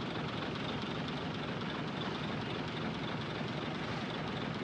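Heavy earthmoving machinery's diesel engine running steadily, with no distinct knocks or revving.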